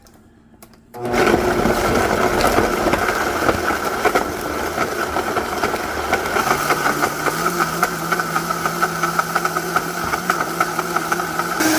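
Electric blender switched on about a second in, its motor running steadily as it purees a wet jerk marinade of citrus segments, garlic, ginger and spices.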